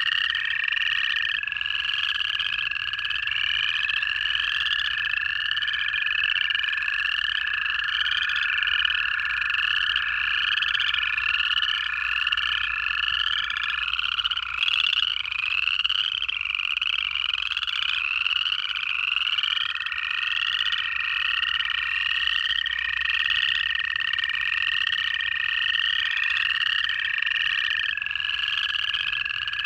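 A pond chorus of upland chorus frogs: rising trills repeated over and over, about two a second. Long, steady trills of American toads overlap them, two at once early on; these stop about halfway and a new one starts a few seconds later.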